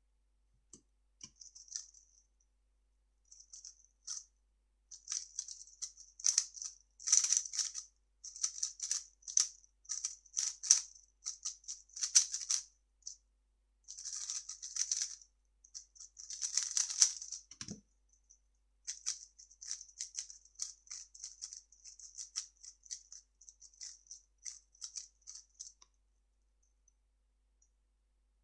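A 3x3 speedcube being turned fast: rapid plastic clicking and rattling of the layers in flurries with short pauses, stopping near the end. One dull low thump comes about two-thirds of the way through.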